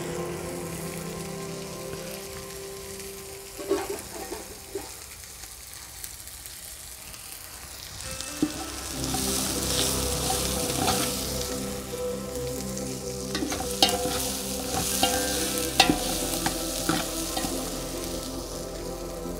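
Chopped shallots, curry leaves and dried chillies sizzling in hot oil in a large aluminium pot, the tempering for a soup, while a metal spoon stirs them and knocks sharply against the pot a few times. The sizzle grows louder from about halfway through.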